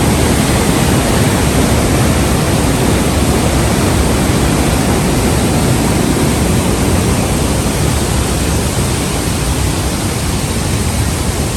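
A waterfall rushing, a loud, steady wash of falling water.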